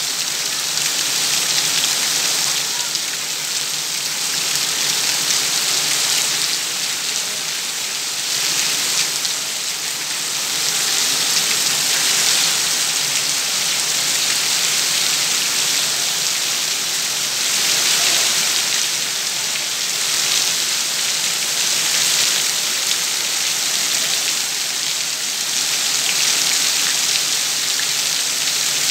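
Heavy rain pouring down onto waterlogged ground and puddles, a steady hiss that swells and eases every few seconds.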